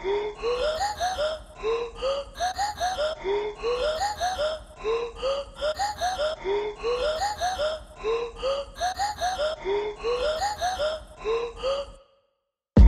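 A short clip of a voice, with notes stepping upward in pitch, looped over and over about every second and a half. It cuts off abruptly about a second before the end.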